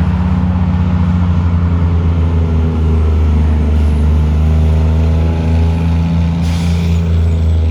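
Heavy truck's diesel engine running loud and close as it passes, a deep pulsing drone that holds steady. There is a brief hiss about six and a half seconds in.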